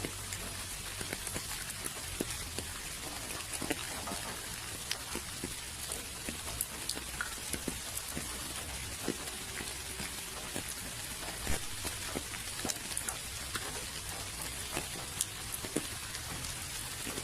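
Steady rain, with a constant hiss and many separate drops ticking irregularly on a surface.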